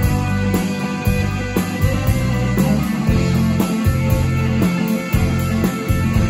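Live rock band playing: guitar over bass and a steady drumbeat.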